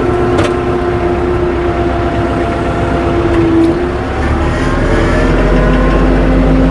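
Tractor engine running under load, its pitch rising as it speeds up about two-thirds of the way through.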